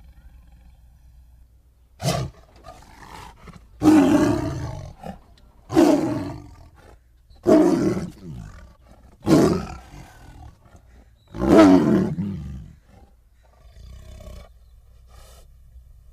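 A series of big-cat roars from a sound effect blended from tiger and hyena recordings: a short call about two seconds in, then five loud roars about two seconds apart, each falling in pitch.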